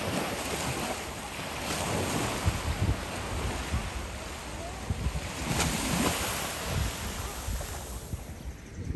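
Ocean surf washing in steadily, with wind buffeting the microphone in uneven gusts.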